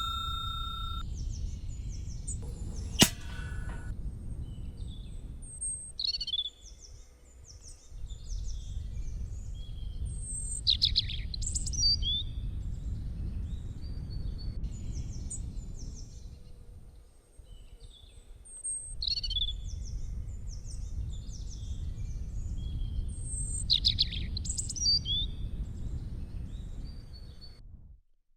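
Birds chirping and trilling in many short high calls over a steady low rumble, which dips away twice.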